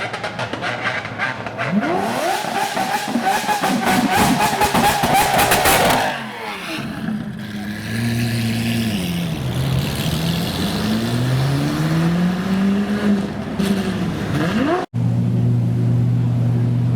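Supercar engine revving hard with a dense crackle from the exhaust, its pitch climbing for a few seconds and then dropping away. Several more revs follow, rising and falling. After a brief dropout, a steady engine drone continues.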